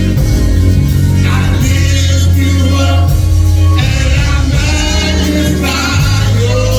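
Gospel praise music with singing voices over held bass notes.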